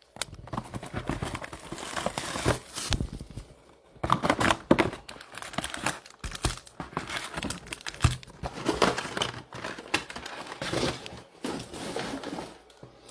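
Foil trading-card pack wrappers being torn open and crinkled by hand, an irregular run of rips and crackling rustles with a few sharper crunches.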